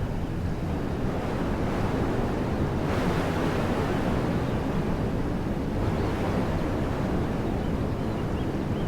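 Wind blowing through woodland trees in a steady rush that swells into a stronger gust about three seconds in and eases off a few seconds later.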